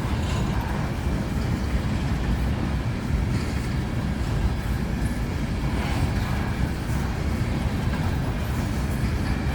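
Freight train cars rolling steadily past, a continuous low rumble of steel wheels on rail.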